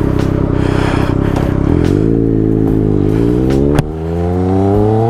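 Triumph Speed Triple RS inline-three engine through an SC Project titanium exhaust, accelerating on the road. The engine note holds steady at first, then rises. A sharp break for an upshift comes about two-thirds of the way through, and the note climbs again after it.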